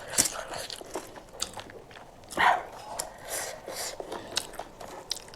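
Close-miked eating sounds: a person chewing a mouthful, with many short, sharp, wet mouth clicks and smacks, and one louder, longer smack about two and a half seconds in.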